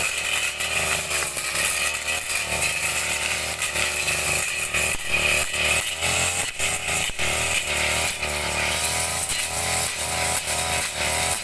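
Brush cutter engine running hard and steadily, its pitch rising and falling again and again as it cuts vegetation.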